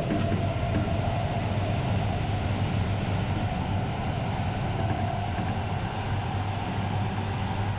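Interior running noise of an E4 series Shinkansen: a steady low hum and rumble from the moving train, with a faint steady whine above it.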